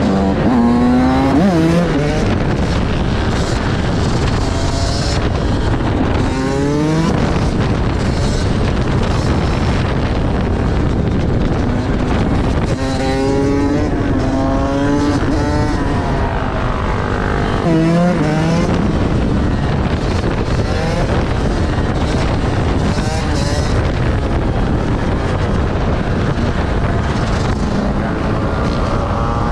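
Motorcycle engines revving hard several times, the pitch climbing in quick sweeps, over a constant loud rush of engine, wind and road noise.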